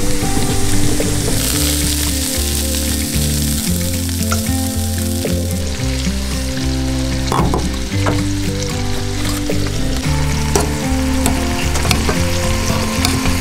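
Food sizzling in a pan on a gas stove, with scattered clicks of a fork scraping and tapping a stainless steel saucepan as potatoes are mashed. Background music with sustained low notes plays underneath.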